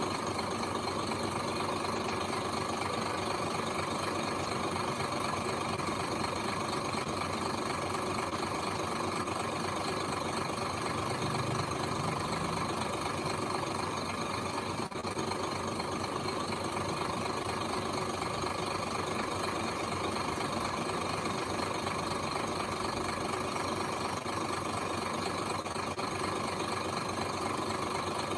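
Diesel engine of heavy earthmoving machinery running steadily, with an even drone and no change in pace.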